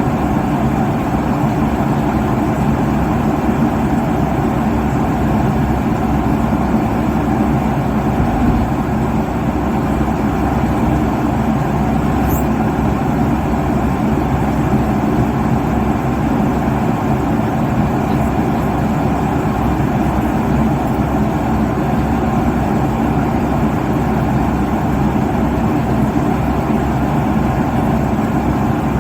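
Airplane cabin noise at cruising altitude: a steady, unbroken rumble of engine and airflow noise, heaviest in the low and middle range.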